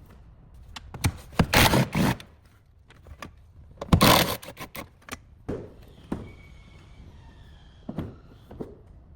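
Scraping and knocking of hands-on work on a car body: two loud rasping scrapes, about a second and a half and four seconds in, among short knocks, with a faint high squeal later on.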